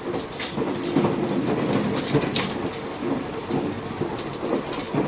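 Argo Bromo Anggrek express train running at speed, heard from inside a passenger coach: a steady rumble of wheels on rail with repeated, unevenly spaced clacks from the rail joints.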